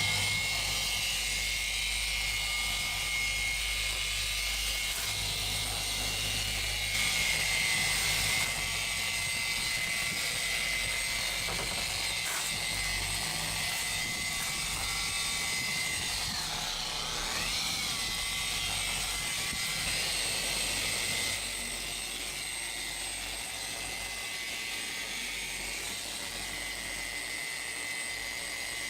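Rupes dual-action polisher running steadily with a high whine while buffing boat gel coat with a medium compound. About two-thirds of the way through, its pitch briefly dips and comes back up as the load on the pad changes.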